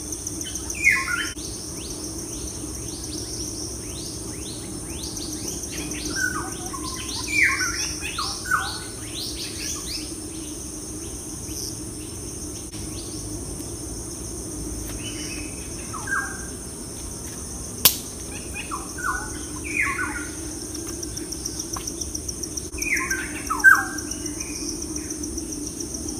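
Birds chirping: short, falling calls come in clusters every few seconds over a steady, high insect-like drone. There is one sharp click about two-thirds of the way through.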